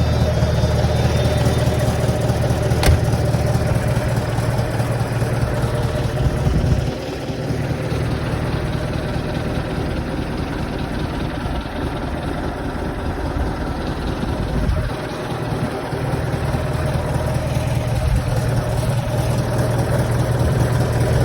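Scania 142H's 14-litre V8 diesel idling cold through straight exhaust pipes, a steady deep exhaust note. It gets quieter about seven seconds in and louder again near the end.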